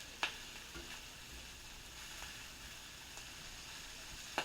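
Shrimp frying in oil in a pan, a faint steady sizzle, with a sharp tap of a utensil just after the start and another at the very end.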